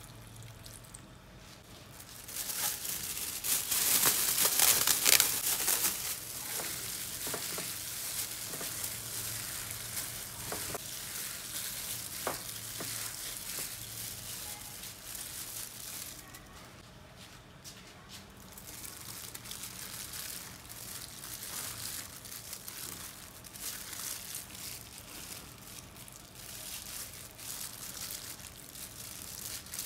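Food frying in a pan, an even sizzle that is loudest for a few seconds near the start, then settles, with a few sharp clicks along the way.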